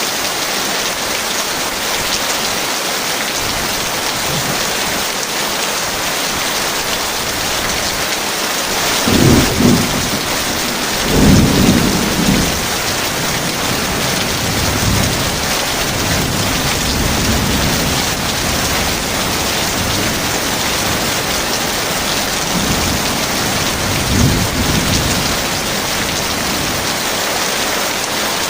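Heavy rain falling in a steady hiss, with thunder rumbling. There is a rumble about a third of the way in, a longer, louder one just after it that trails off slowly, and a shorter rumble near the end.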